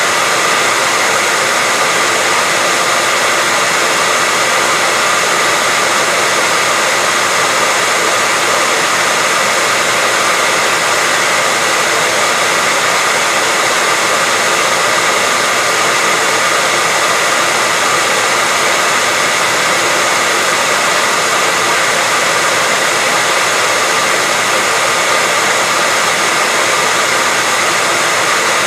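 Hairdryer running continuously on a steady setting: an even, unchanging hiss of blown air with a faint steady whine from its motor.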